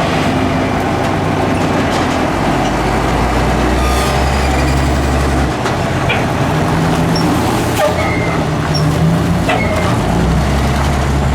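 Ford L8000 Loadmaster garbage truck's diesel engine running, its deeper note stepping up and back down twice, with steady hydraulic pump whine and a few short metal clanks.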